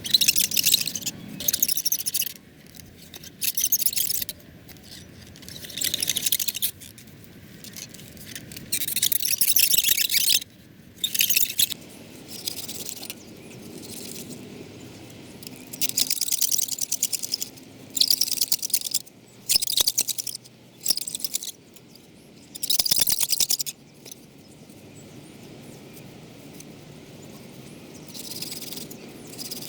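Dry wood rubbed hard against wood for a friction fire: loud scraping strokes in bursts of half a second to two seconds, with short irregular pauses between them.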